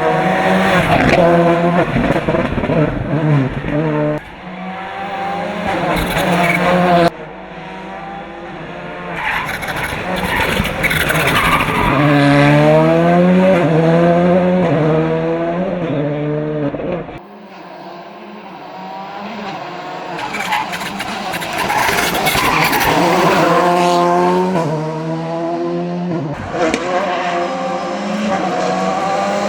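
VW Polo R5 rally car's turbocharged four-cylinder engine at full race pace, revving hard up through the gears and dropping back on each shift and lift for corners. The sound cuts abruptly twice, at about 7 and 17 seconds, and picks up again.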